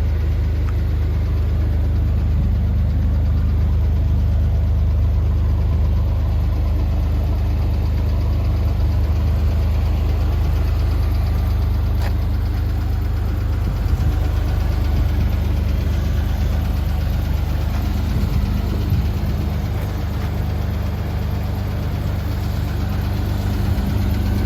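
Toyota Land Cruiser FJ62's inline-six petrol engine idling steadily shortly after a cold start on a cold morning, with a constant low hum.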